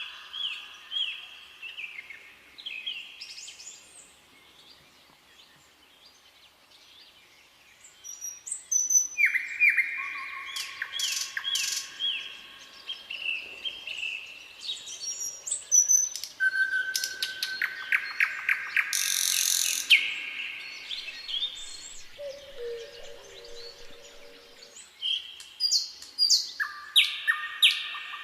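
Several songbirds singing, in bursts of quick repeated chirps, with a quieter lull of a few seconds near the start.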